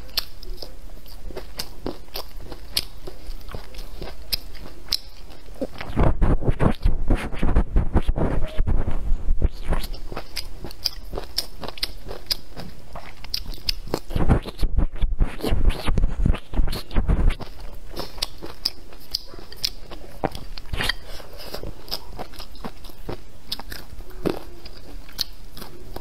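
Close-miked eating: chewing and small wet mouth clicks throughout, with two spells of loud crunching, the first about six seconds in and the second about fourteen seconds in as a crisp lettuce leaf is bitten and chewed.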